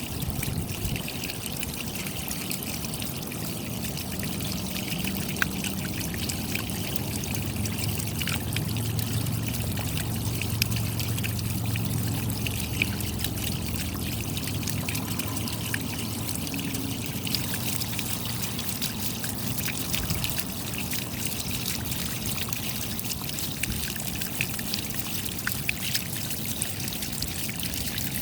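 Steady rain, a dense patter of small drop ticks over a continuous trickling, pouring water sound.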